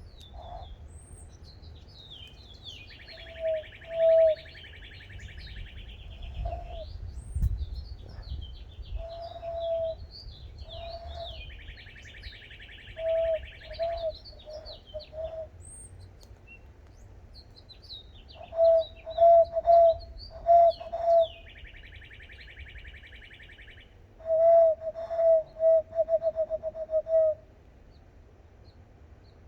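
Hand whistling through cupped hands: short, clear hooting notes at one steady pitch, given in pairs and short runs, with a fast stutter of about ten notes near the end. Wild birds chirp between the notes, and a buzzy trill sounds three times.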